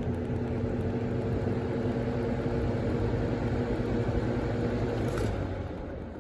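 Lasko B20301 20-inch box fan running on its low setting with a steady motor hum and blade noise. About five seconds in it is clicked off, the hum stops, and the fan winds down.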